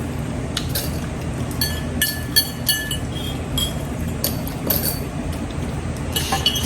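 A fork clinking against a plate while someone eats spaghetti: a scattered series of light clinks, each with a short ring, over a steady low hum.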